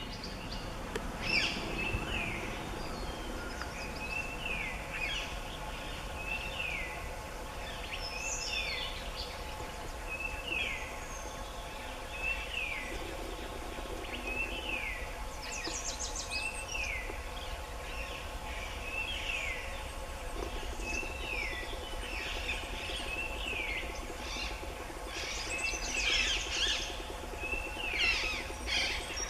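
Scarlet minivet calling: short whistled notes sliding downward, repeated every second or so in small groups. Other bird chirps thicken and grow louder near the end.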